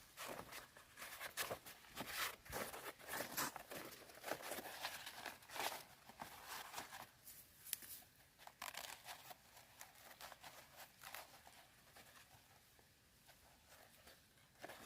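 Skin being peeled by hand off a tam yan forest fruit: irregular crackling and tearing, busy for the first half and thinning out in the second.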